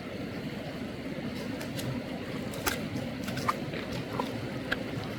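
Mountain stream water running steadily, with a few small sharp clicks scattered through it.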